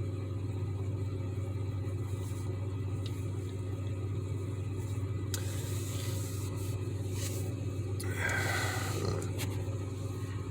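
A steady low mechanical hum throughout. A short rushing noise comes through about eight seconds in, with a fainter one a little past the middle.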